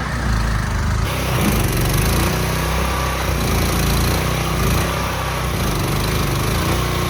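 Mud boat's mud motor engine running steadily, pushing the boat through thick marsh mud.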